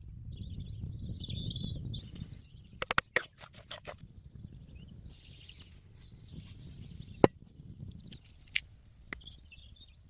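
Birds chirping in short wavering phrases over a low rumble, with scattered sharp clicks and snaps, one louder snap about seven seconds in.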